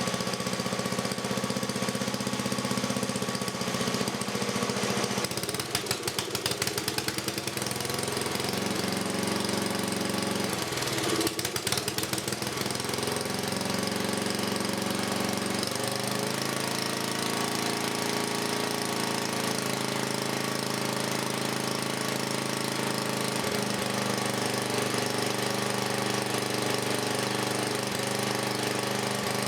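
Freshly rebuilt 1984 10 HP Briggs and Stratton single-cylinder vertical-shaft engine running, with new rings, gaskets and reseated valves. It runs steadily, stumbling unevenly for a couple of seconds twice early on and shifting speed slightly a few times.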